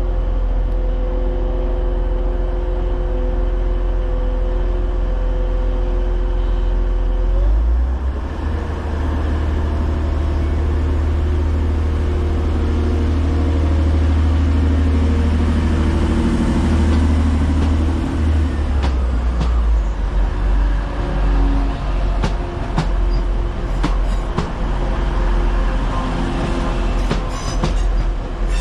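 A train running at the platform with a steady pitched running note and heavy low hum; about seven seconds in the note shifts upward as it powers up, and through the second half its wheels click over rail joints, with some wheel squeal near the end.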